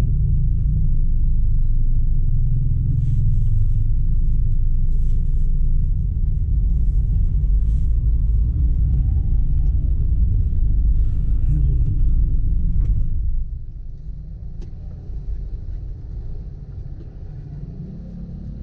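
Steady low rumble of a vehicle travelling on the road, loud at first and dropping noticeably about thirteen seconds in.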